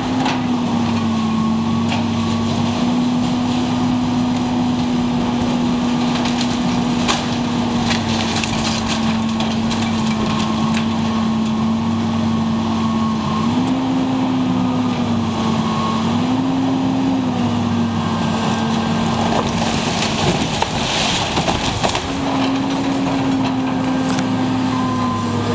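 Heavy demolition machine running, its engine pitch rising briefly several times under load, with scattered cracking and splintering of wood as a timber building is torn down.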